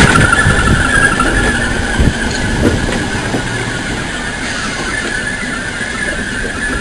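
A train moving through the station with a steady high squeal over a low rumble, loudest at the start and easing off after a few seconds.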